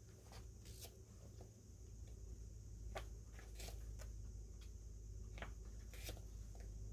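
Scattered light taps and rustles of paper and plastic merchandise being handled during an unboxing, over a steady low hum.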